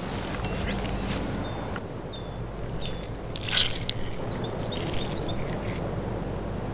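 Outdoor ambience: a steady low background hiss with a small songbird chirping, short high notes that each drop in pitch, with a quick run of three about halfway through.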